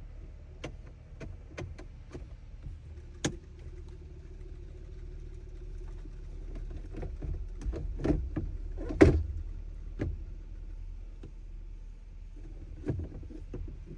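Scattered clicks and knocks of hard plastic parts being handled and fitted in a truck dashboard during an instrument cluster swap, with one louder knock about nine seconds in, over a low steady hum.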